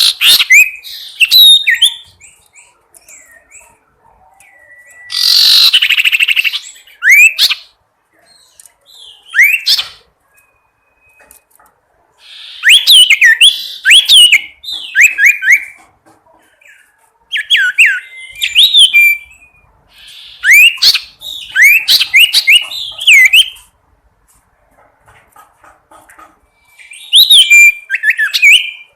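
A sirtu songbird calling in bursts of quick, sharp whistled chirps that sweep up and down in pitch, grouped in short phrases with pauses between them. Two harsh, hissing bursts come at the start and about five seconds in.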